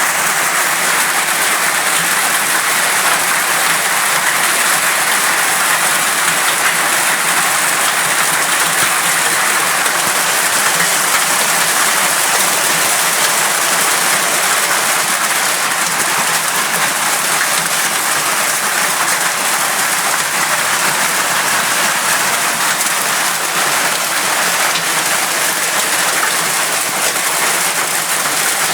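Hailstorm: hailstones and heavy rain pelting down, a loud, dense, steady patter of countless impacts with no let-up.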